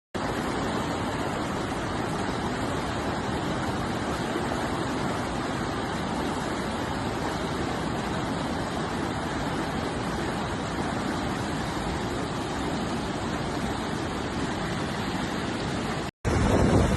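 Flash floodwater rushing in a steady, even rush. About sixteen seconds in it cuts off for a moment, and a louder, lower rush with wind buffeting the microphone begins.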